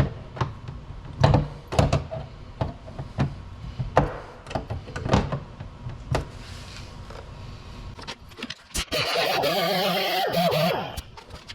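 Dent repair on a steel car door panel: a string of sharp knocks at irregular intervals, then a handheld power tool runs for about two seconds near the end with a wavering pitch.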